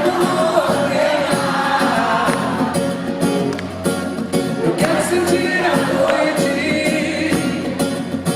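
Live band music with a steady percussion beat and a sung melody.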